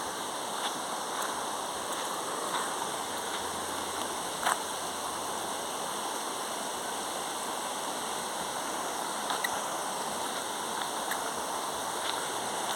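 Steady rush of flowing water, like a stream, with a few brief clicks.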